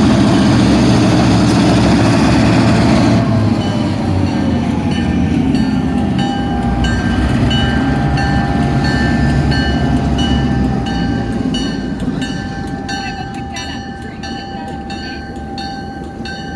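A train passing: a heavy locomotive rumble for the first three seconds, dropping in pitch as it goes by. Then the cars roll past, clacking over the rail joints about twice a second under a steady high squeal, and the sound fades toward the end.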